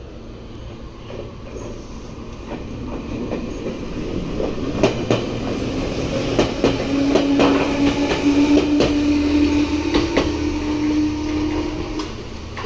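Red Meitetsu electric trains moving through the station: wheels clicking over rail joints, growing louder, with a steady whine that rises slightly in pitch over the second half.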